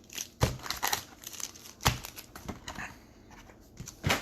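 Trading card packs and cards being handled: wrappers crinkling and tearing, cards rustling, with three sharper knocks about half a second in, near two seconds and at the end.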